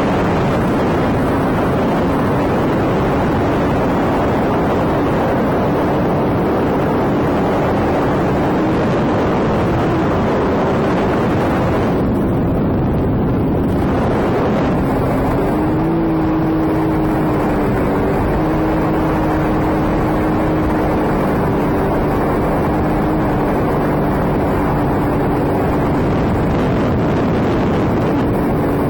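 Sea-Doo jet ski engine running at cruising speed under a steady rush of wind and water noise, its engine note wavering and rising a little about halfway through.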